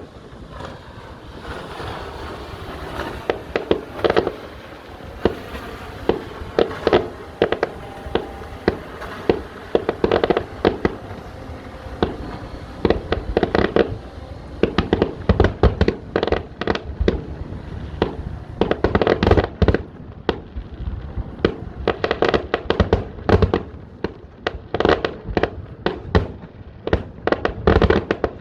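Fireworks display: a rapid, irregular string of aerial shell bursts and crackling reports over a continuous rumble, with dense clusters of bangs through much of the time.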